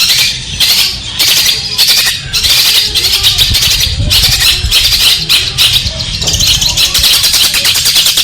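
Long-tailed shrike (cendet) singing: a loud, continuous run of rapid, scratchy notes that continues without a break.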